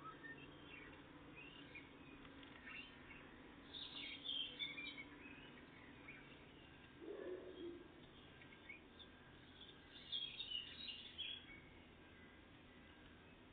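Small songbirds chirping and calling in short bursts, loudest about four seconds in and again around ten to eleven seconds, over a faint steady background hum. A brief lower sound comes about seven seconds in.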